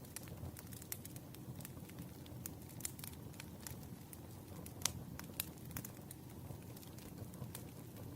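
Campfire crackling: irregular sharp snaps and pops over a steady low rumble of burning, with one louder pop about five seconds in.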